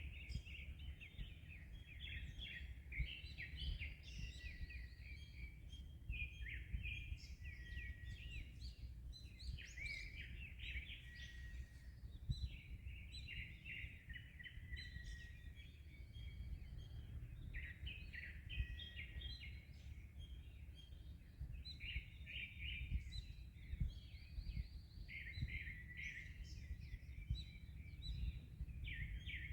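Several songbirds singing at once in a busy, overlapping chorus of short chirps and trills, over a steady low rumble of wind and waves.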